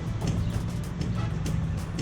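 Steady low drone of a small-block V8 Chevrolet Chevelle under way, heard from inside the car, with music playing over it.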